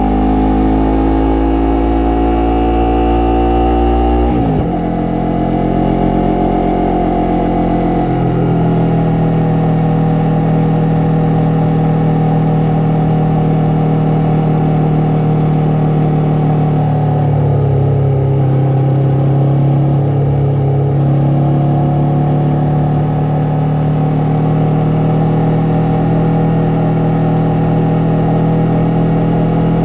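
Yamaha MT-03's parallel-twin engine and exhaust under way, revving up and shifting up twice in the first eight seconds, then running at a steadier pitch, easing off briefly midway and building again.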